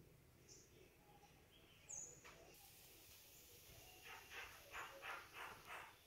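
Faint birds chirping: a short high note about two seconds in, then a quick run of about six notes near the end.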